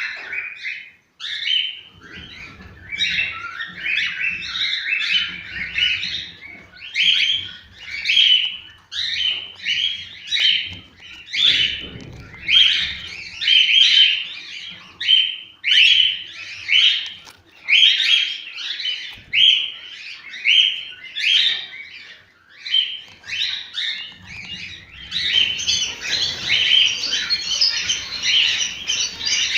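Cockatiels singing: a continuous series of short, chirpy whistled notes, about two a second, growing denser near the end.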